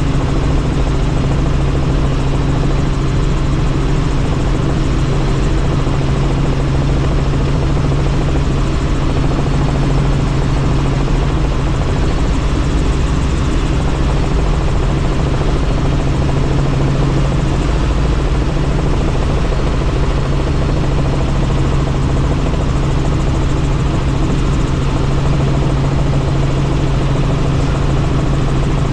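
Helicopter in steady flight heard from on board: a constant low drone of rotor and engine over a dense rush of wind noise, holding the same pitch and level throughout.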